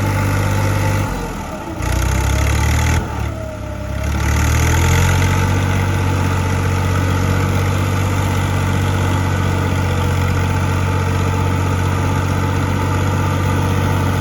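A vehicle engine running. Its pitch dips and steps up a few times in the first few seconds, then it holds a steady drone.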